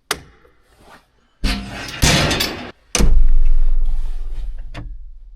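A sharp click, a couple of seconds of rustling and scraping, then a heavy vehicle door slamming shut. The low rumble of the slam fades over about two seconds.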